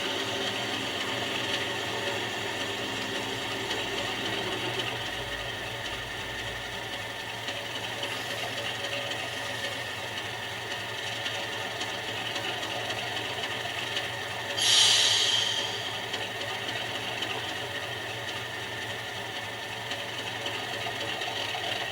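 Model diesel locomotive's DCC sound decoder playing an idling diesel engine through its small speaker. About 15 seconds in, a short sharp hiss of released air fades away over about a second.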